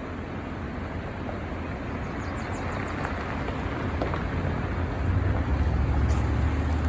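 Pacific Ocean surf rushing on the beach, a steady noisy wash, with a low rumble swelling about five seconds in.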